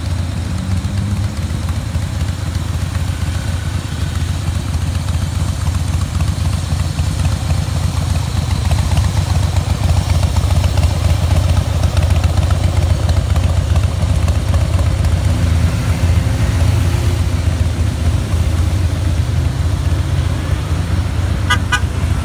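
Harley-Davidson Breakout's V-twin engine running steadily, getting somewhat louder from about eight seconds in; a few short clicks just before the end.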